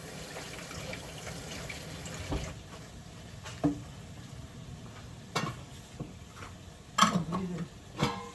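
Chicken cooking in a pot of meat grease on the stove, with a steady faint sizzle, and a handful of separate knocks and clinks of pots and utensils.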